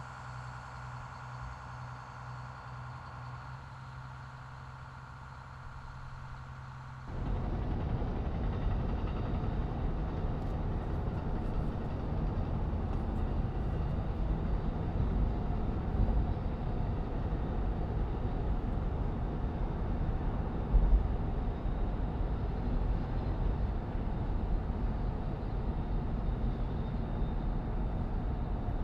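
A steady hum with a few held tones, then about seven seconds in a sudden cut to the loud, even rumble of a railroad train in motion, with a single thump about two thirds of the way through.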